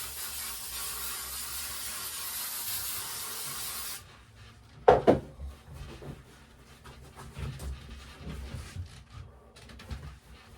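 Spray adhesive hissing steadily as it is sprayed to hold the upholstery in place, then cutting off suddenly about four seconds in. About a second later there is a single sharp knock, followed by faint handling noises.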